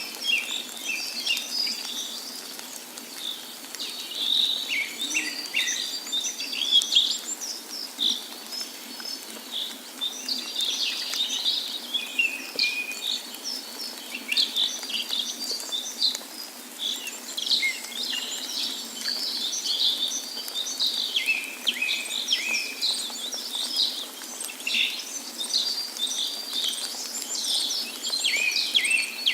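Many songbirds chirping and singing at once, a dense chorus of short overlapping calls and trills, over a faint steady hiss.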